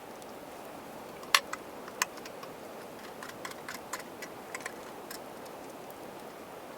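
Scattered sharp clicks and ticks, a dozen or so, the loudest two close together about a second and a half in, over a steady low hiss.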